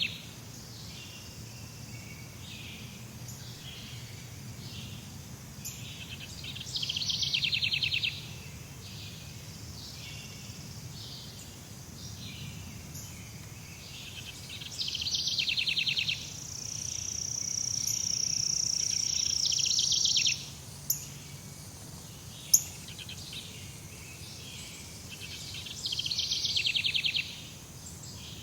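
Jungle ambience of birds and insects: a steady chirring background, with a fast, high pulsing trill about a second long that comes three times. Midway a high steady buzz swells for about four seconds and stops abruptly, followed by two sharp ticks.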